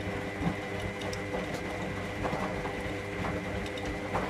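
Electra AWF683 washing machine running: a steady motor hum with several whining tones over it and light mechanical clicks.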